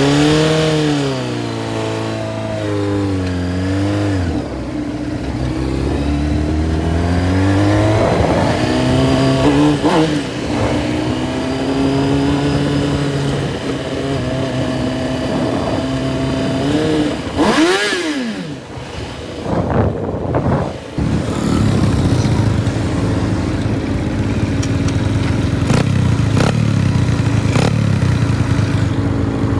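Minibike engine running under way, its pitch rising and falling as the throttle is opened and closed. About two-thirds of the way through it drops off briefly and picks up again.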